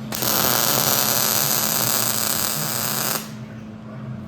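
Welding arc crackling steadily for about three seconds, then cutting off sharply: a short weld bead on steel door-hinge parts.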